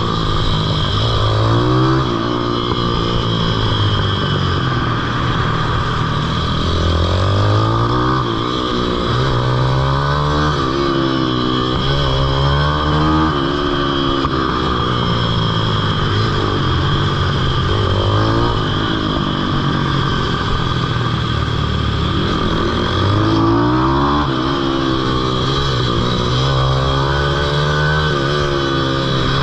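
Pitbike engine revving hard and easing off over and over, its pitch climbing and then dropping back every few seconds as the bike accelerates and slows around the track.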